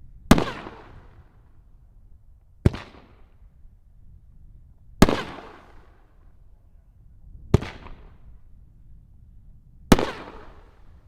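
Aerial fireworks going off: five sharp booms about two and a half seconds apart, each trailing off in a long rolling echo.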